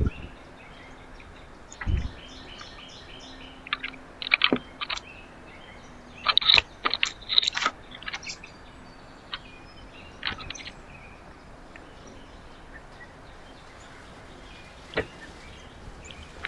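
Small birds at a backyard feeder giving scattered short, sharp chirps and calls in a few quick clusters. There is a low thump at the start and another about two seconds in, over a faint steady hum.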